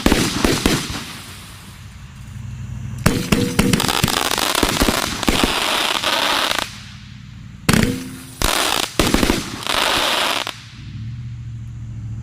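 Cutting Edge 'Death Craze' 25-shot, 500-gram fireworks cake firing. Clusters of sharp bangs come near the start, about three seconds in, and around eight seconds in, each followed by a long crackling shower.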